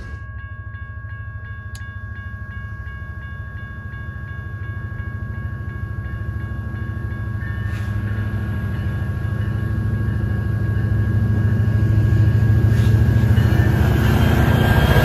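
Grade-crossing warning bell ringing steadily as a CN double-stack intermodal train's diesel locomotives approach, their low rumble growing louder until the train reaches the crossing near the end.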